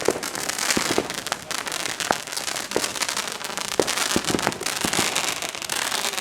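Fireworks going off, a constant crackling with many sharp bangs throughout.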